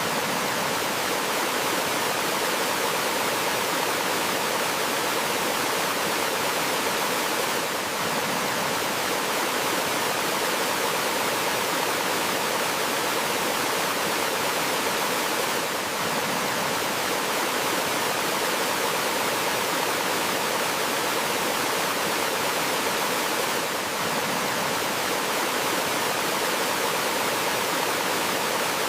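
Flowing water rushing steadily, with a slight dip in level about every eight seconds.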